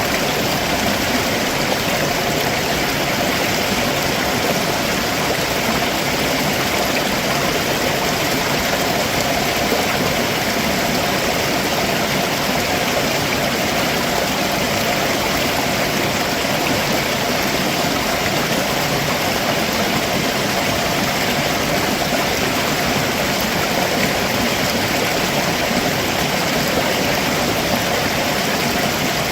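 Stream water rushing steadily over rocks below a waterfall, an even rushing noise with no breaks.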